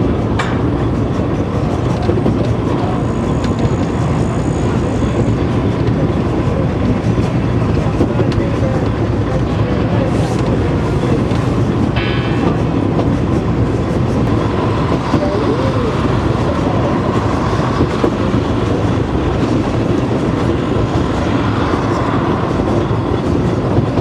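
Swiss mountain railway train running along the track: a steady, unbroken noise of wheels and carriage on the rails, with a short high tone about twelve seconds in.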